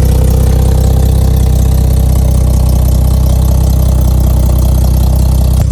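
Ford AU Falcon's 4.0-litre Intech inline-six idling steadily through a new custom muffler and side-exit exhaust, an even low drone.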